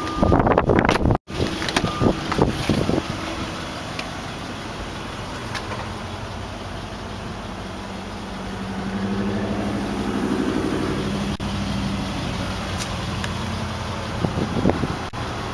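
A few knocks and rustles of a car door and handling in the first seconds, then the low, steady hum of a 2006 Range Rover's V8 idling, heard from inside the cabin, swelling slightly for a few seconds near the middle.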